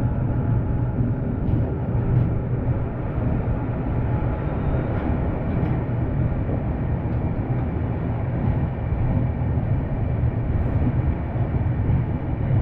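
Express passenger train running: a steady low rumble with a few faint clicks.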